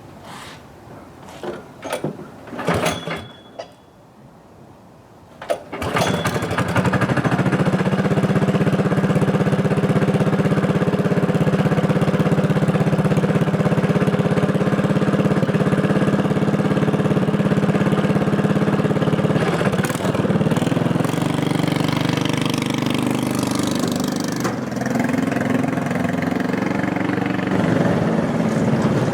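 A few clicks and knocks, then a cyclekart's small engine starts about six seconds in and runs steadily, its pitch shifting twice near the end.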